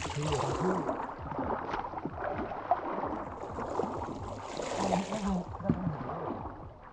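River water splashing and sloshing around people wading and groping for shrimp, with scattered small knocks. Two brief low vocal sounds come through, one near the start and one about five seconds in.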